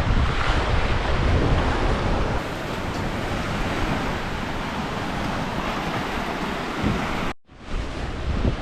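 Sea surf washing on the shore, with wind buffeting the microphone. The sound cuts out for a split second near the end, then the surf resumes.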